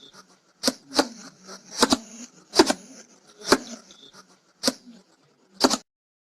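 Hedgehog huffing: a run of short, sharp puffs, some in quick pairs, about one a second, stopping shortly before the end.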